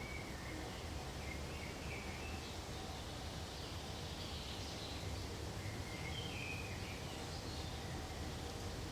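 Steady low forest ambience with faint short bird chirps scattered through it, a few at the start, between one and two and a half seconds in, and again around six seconds in.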